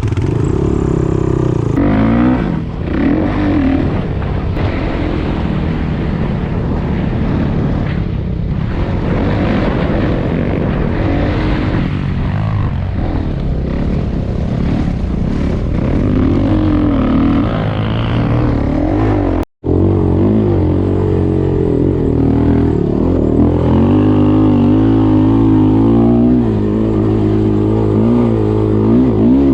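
Off-road vehicle engine running under riding load, its pitch rising and falling with the throttle. The sound cuts out for an instant about two-thirds of the way through.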